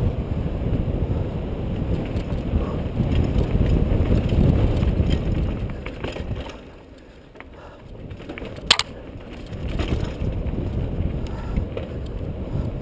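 Mountain bike riding down a dirt trail: wind buffeting the helmet-mounted camera's microphone over the rattle and rumble of tyres and frame. The noise eases off briefly past the middle, and a single sharp knock comes in that lull.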